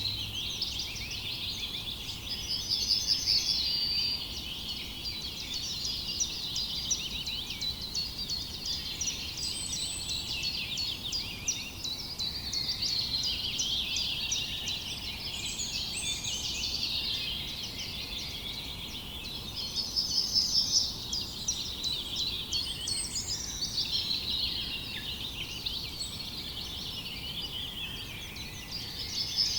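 Many small birds chirping and twittering together in a dense, continuous chorus, with quick trills of repeated notes a few times.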